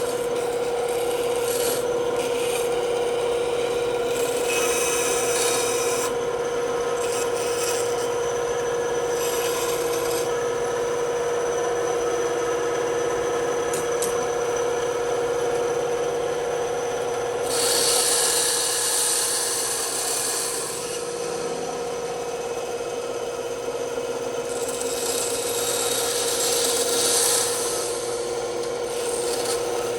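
Bandsaw running with a steady hum while its blade cuts through wood. The hissy cutting sound swells louder twice, past the middle and near the end.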